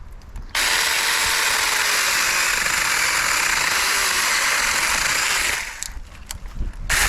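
Cordless 6-inch Supstable mini chainsaw running and cutting through a branch about 4 inches thick, starting about half a second in. It stops briefly near the end, then starts again.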